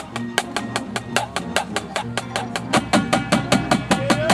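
Drum corps rehearsal music: a steady run of sharp percussive strokes, about five a second, over lower pitched ensemble sound that grows fuller about three seconds in.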